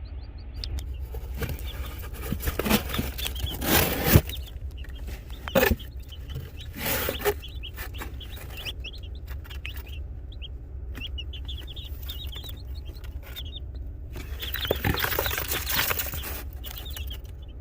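Bantam Brahma chicks peeping: many short, high cheeps, broken by several loud rustles and knocks from handling.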